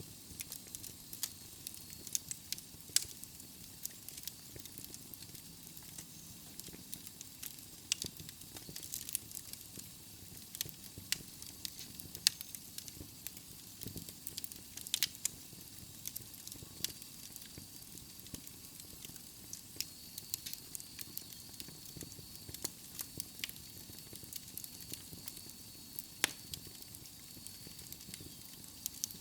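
Logs burning in a fireplace, with irregular sharp crackles and pops, a few of them louder, over the steady low rumble and hiss of the flames.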